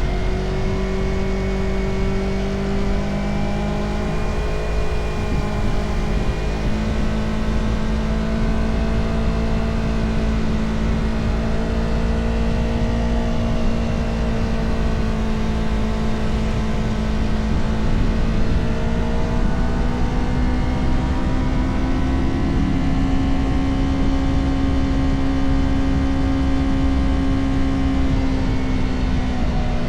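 Motorcycle engine running under way, its pitch rising and falling gently with the throttle, with a higher, sustained stretch about two-thirds of the way through. A low rumble runs underneath.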